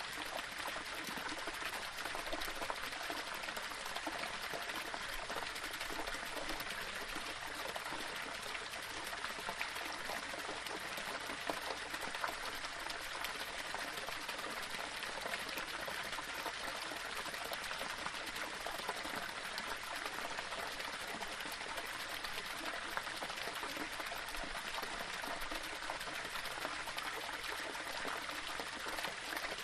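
Small waterfall running over rocks: a steady splashing, trickling rush of water with fine droplet detail.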